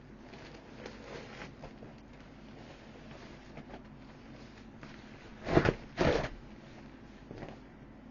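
Rustling and handling of a deflated inflatable vinyl boat, with two loud, short rasping rips or crumples in quick succession about five and a half seconds in, and a smaller one shortly after.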